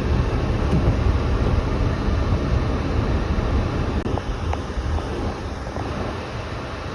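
Steady, loud outdoor rushing and rumbling noise, heaviest in the low end, like wind and traffic sound on a field recording.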